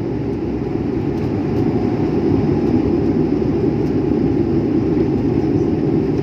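Steady loud rumble of an airplane landing, with no change in level throughout.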